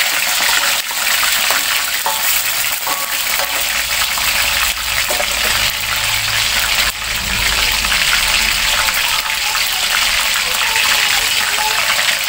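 Chicken pieces deep-frying in hot oil in a wok, a steady loud sizzle.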